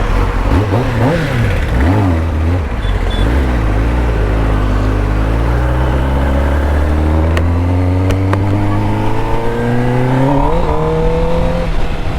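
Superbike engine speeding up while riding, its pitch climbing slowly for several seconds, with a quick rise about ten seconds in before it levels off.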